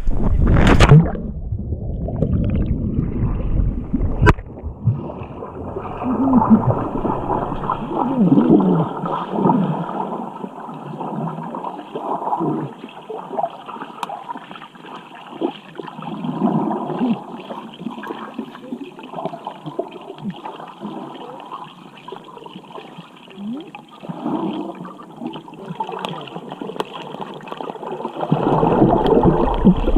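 A splash about a second in, then muffled bubbling and gurgling of water as heard underwater, with the fuller open-air sound coming back near the end as it surfaces.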